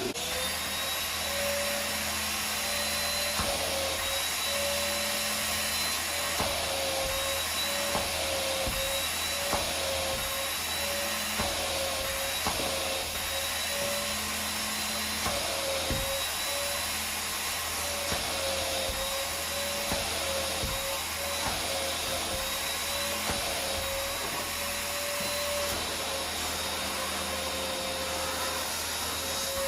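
Vacuum cleaner running steadily, a whooshing rush of suction with a held motor whine, broken by scattered brief clicks.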